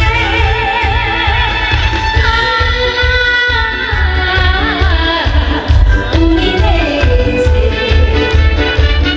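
Trot song performed live: a woman singing with a wide vibrato on held notes over an amplified accompaniment with a steady pulsing bass beat.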